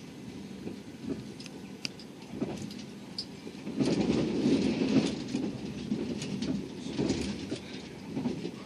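Passenger train running along the line, heard from inside the carriage: a steady rumble of wheels on rail with scattered clacks, swelling louder for a second or so about four seconds in.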